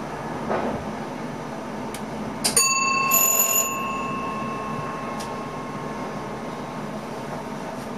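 A bell in the train's driver's cab, struck once about two and a half seconds in with a sharp click, ringing out and fading over about three seconds, over the train's steady running noise.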